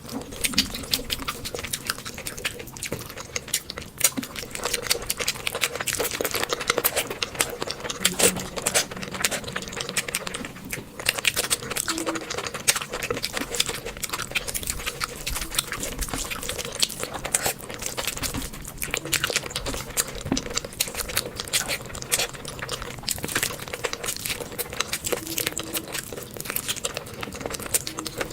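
Close-miked eating sounds: rapid, continuous wet chewing and lip smacking of curry and rice, with many small clicks.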